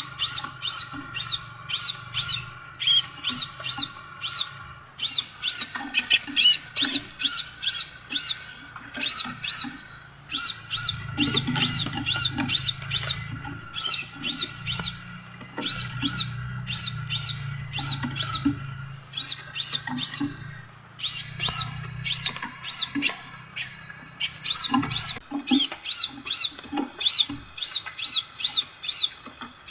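Sepah raja (scarlet minivet) calling: runs of sharp, high chirps, about three a second, broken by short pauses, over a faint low hum.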